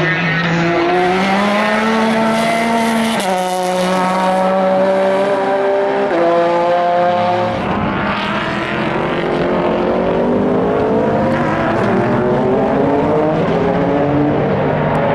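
Race car engines running hard at speed, their pitch climbing and then stepping suddenly at gear changes, twice in the first half. From about halfway on, more engine noise joins in as further cars pass.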